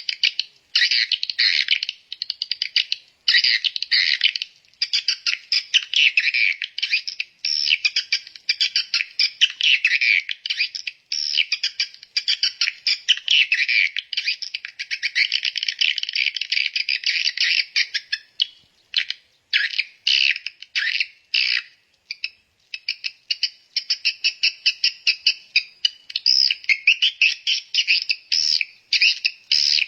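Birds chirping and twittering rapidly, almost without pause, thinning out briefly about two-thirds of the way through before picking up again.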